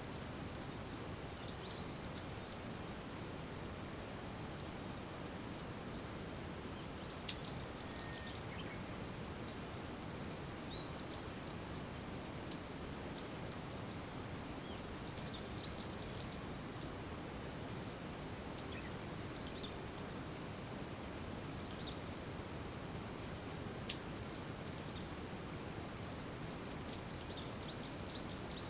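Steady rain falling, with a bird calling over it in short high chirps every second or two.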